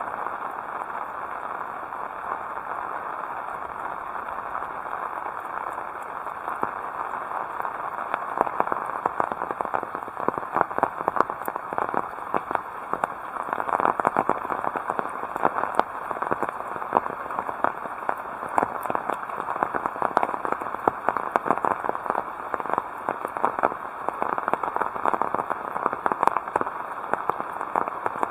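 Heavy rain falling, a steady hiss crowded with the sharp hits of many close drops, growing heavier and louder from about seven seconds in.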